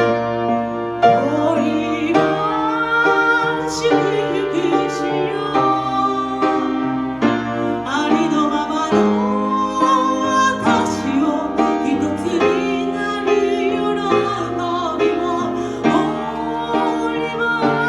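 A woman singing a slow ballad live, with piano accompaniment; the voice holds long notes with a gentle waver.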